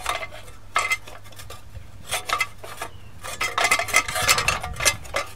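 Clinks and rattles of a sheet-metal recoil starter housing being handled and tried onto a lawnmower engine, a string of sharp metallic knocks that is busiest in the second half.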